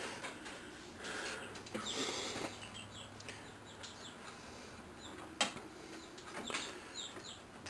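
Faint short bird chirps in the background, with a few soft handling rustles and a sharp click about five and a half seconds in.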